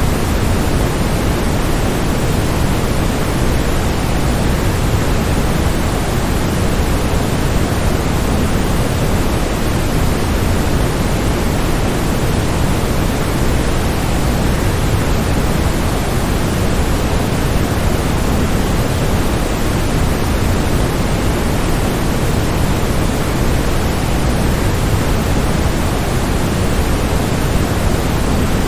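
Waterfall: a steady, unbroken rush of falling water, fullest in its deep rumble and never changing in level.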